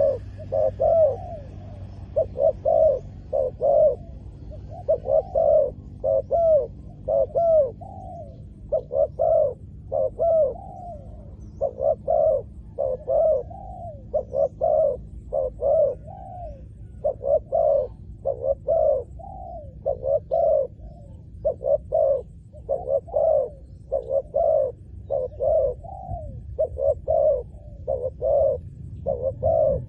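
Spotted doves cooing: short rising-and-falling coo notes in repeated phrases, one phrase after another with brief gaps.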